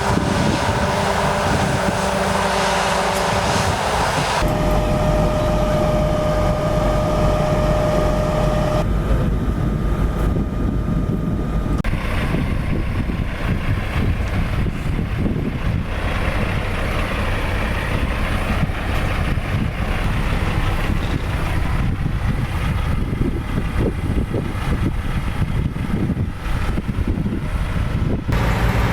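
Heavy vehicle engines running steadily with a low rumble, heard across several edited shots; in the first shots a steady whine sits over the engine, and it stops at a cut about a third of the way in.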